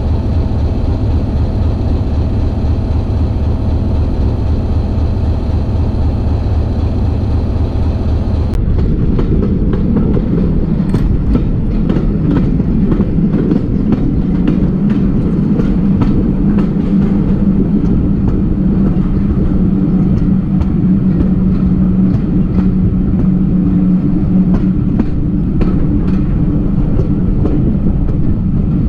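Train running: a steady engine drone for the first eight seconds or so, then an abrupt change to the rapid clicking of wheels on the track with a low drone underneath.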